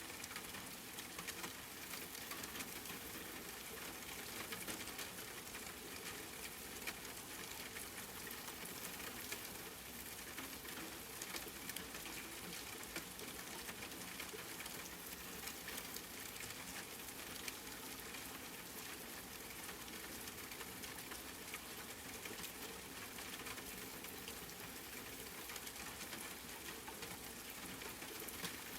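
Steady rain pattering: an even hiss of falling rain with many small sharp drop ticks throughout.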